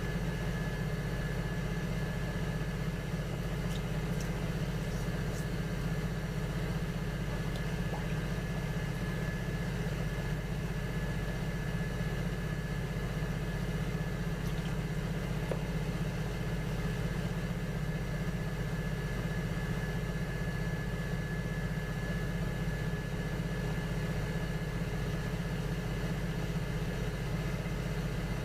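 Electric potter's wheel motor running at a steady speed: a constant low hum with a thin steady whine above it and a few faint clicks.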